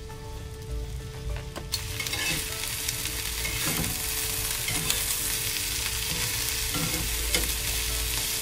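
Sliced mushrooms and jalapeños sizzling on a griddle over gas burners, the sizzle jumping louder about two seconds in as the mushrooms are turned. Light clicks and scrapes of a metal spatula and tongs on the griddle.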